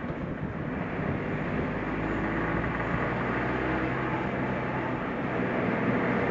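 Suzuki Jimny driving at steady speed: even engine hum and tyre and road noise, with no changes or separate events.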